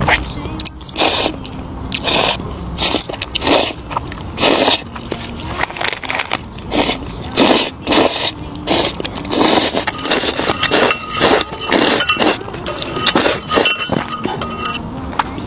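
Close-miked chewing of crisp food, with a loud crunch roughly every half second to second in an uneven rhythm.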